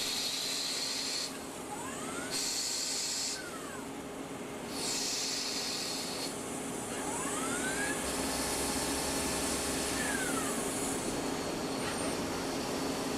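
CNC lathe at work: a steady machine hum under spells of high hiss that come and go, with a whine that rises, holds and falls twice as the spindle or axis drives speed up and slow down.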